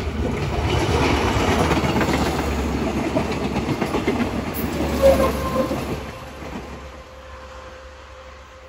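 Multiple-unit passenger train passing close by: steady running noise of wheels on the rails, loudest in the first few seconds and fading as the train draws away after about six seconds.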